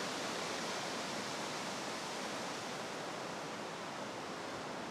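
Steady, even rushing hiss of wind outdoors, with no distinct events.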